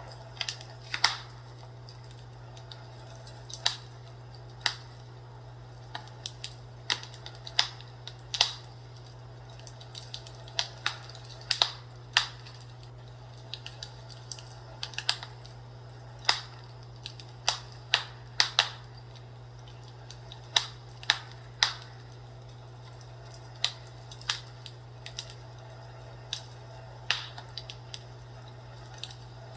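Fireplace crackling: irregular sharp pops and snaps of burning wood, sometimes several in quick succession, over a steady low hum.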